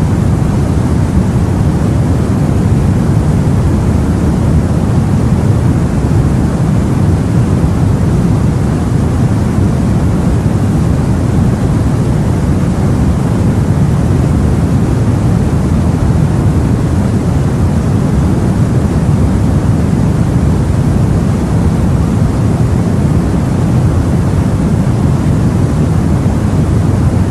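Steady low rumble of sea and wind, an even wash with no breaks or single events.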